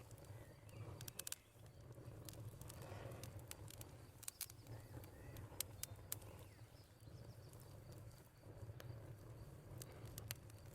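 Wood fire in a fireplace crackling faintly, with irregular sharp pops and snaps over a low steady rumble.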